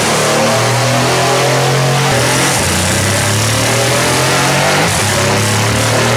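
Mercedes-AMG C63's twin-turbo V8 with a stage 2 tune and an Akrapovič exhaust, running hard under load on a chassis dyno. Its pitch climbs, drops back about two seconds in and again near five seconds, then climbs again.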